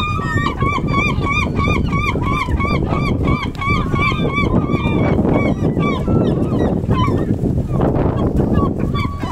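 Gulls calling in a fast run of repeated yelping notes, about three a second, which thins into scattered calls after about five seconds, over a steady low noise.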